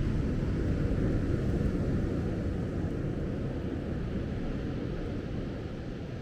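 Surf washing onto the beach with wind, a low steady rush that swells in the first second or two and then slowly eases.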